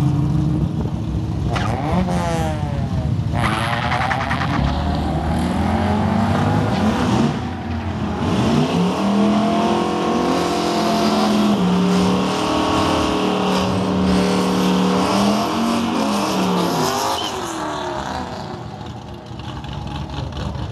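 Car engines: about two seconds in, an engine revs up sharply in two quick rising sweeps. From about eight seconds, a car engine runs steadily nearby, its pitch rising, holding, then falling away after about sixteen seconds.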